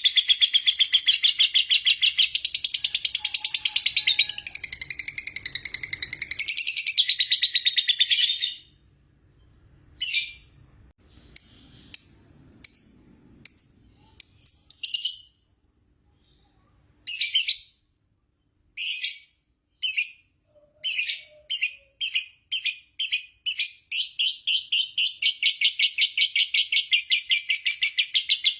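Lovebird 'ngekek': a long, rapid, shrill chattering trill. It breaks off about a third of the way in and comes back as short separate bursts. These come faster and faster and run together into an unbroken trill again near the end.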